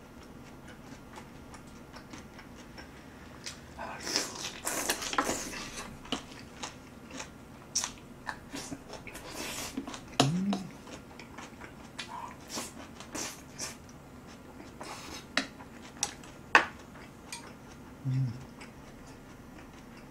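Chewing and crunching of young-radish kimchi (yeolmu kimchi), with scattered sharp clicks of chopsticks and a spoon against bowls. There are two short hummed "mm" sounds, one about halfway and one near the end.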